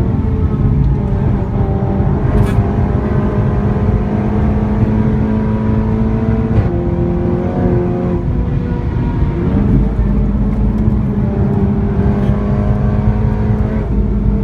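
Seat Leon Cupra engine and loud exhaust pulling hard under acceleration, the note climbing slowly and then dropping abruptly at an upshift about six and a half seconds in, with another change in pitch near ten seconds. A heavy road and wind rumble runs underneath.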